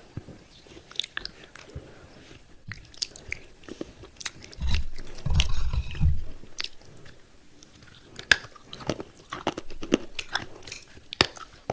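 Chewing of thick broken clay-pot pieces: sharp, irregular crunches and cracks as the baked clay breaks between the teeth, with a heavier, deeper bout of crunching about halfway through.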